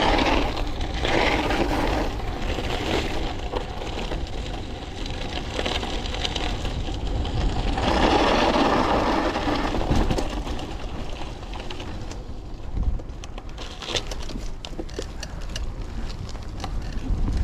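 Riding noise of a bike going downhill: a steady rush of wind and tyre noise with surges, mixed with a fast mechanical rattle, turning quieter with many sharp clicks and knocks in the second half.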